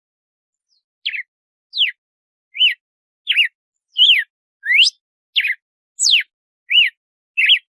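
Red-cowled cardinal (galo-de-campina) singing the 'açoite' type of song: a run of about ten short, clear whistled notes, each sliding up or down in pitch, coming in quick succession after about a second.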